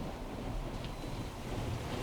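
Automatic car wash machine running over a car: a steady, low rushing rumble of spraying water and machinery.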